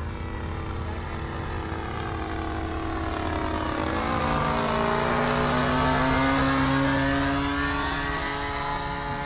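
Radio-controlled model airplane's engine buzzing past in a flyby. It grows louder toward the middle, its pitch drops about four seconds in as it passes, and it fades slightly near the end.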